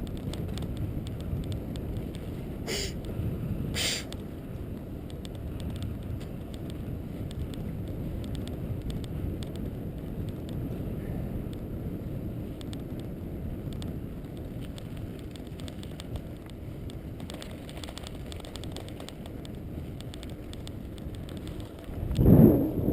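Steady low rumble of wind on the microphone and road noise while moving along a road, with scattered light clicks, two short sharp knocks a few seconds in, and a loud thump near the end.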